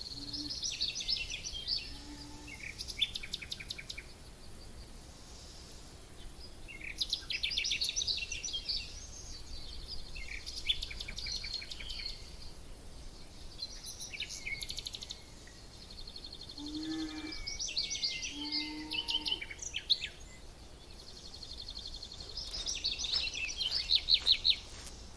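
Songbirds singing: bursts of rapid high chirps and trills come back every few seconds, with short pauses between, over a faint steady background hum. A few short, much lower sounds come in just past the middle.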